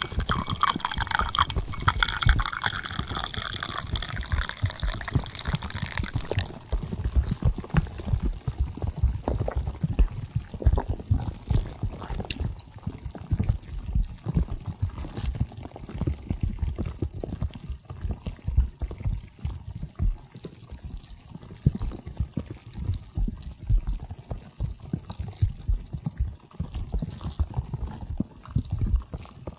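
Carbonated hot-spring bath water sloshing and lapping, with irregular low splashes and drips throughout. A high hiss over the water stops suddenly about six seconds in.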